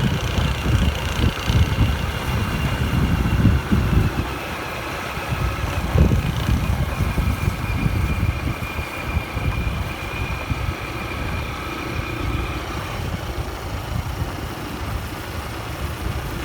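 A motorbike engine running, with irregular low rumble like wind buffeting the microphone; a faint steady whine fades out about thirteen seconds in.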